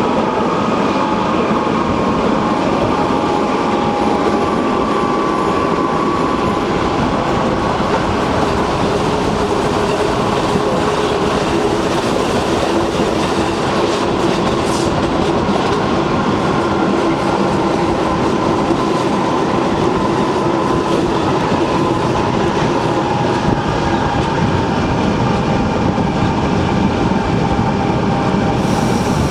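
Swiss narrow-gauge mountain railway train running along the track: a steady, even rumble with faint clickety-clack and a couple of held humming tones.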